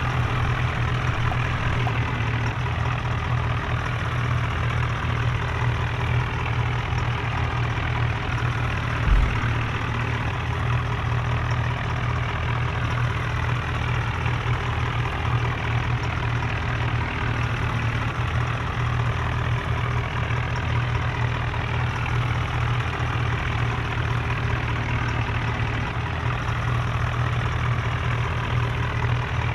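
Tractor diesel engine running steadily, with one brief low thump about nine seconds in.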